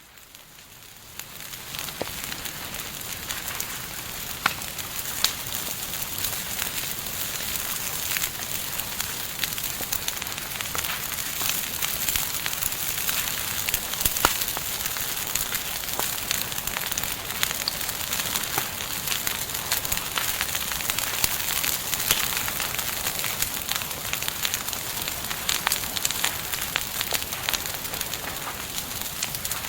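Campfire burning: a steady hiss of flames with frequent sharp crackles and occasional louder pops. It fades in over the first couple of seconds.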